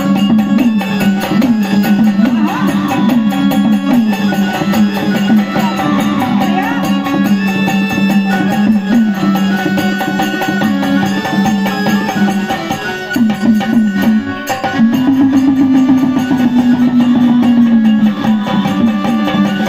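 Instrumental break in a Marathi devotional folk song: drums and small percussion keep the beat under a bending melody line. The melody holds a long note near the end.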